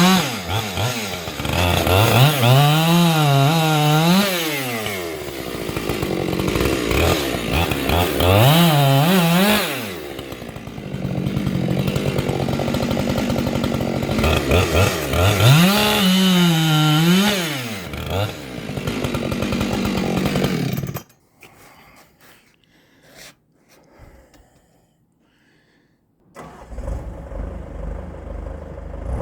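Chainsaw cutting through large firewood rounds, its engine note rising and falling several times as it revs and loads in the cut. It stops suddenly about two-thirds of the way through, and a few seconds later a deeper, steadier engine note starts near the end.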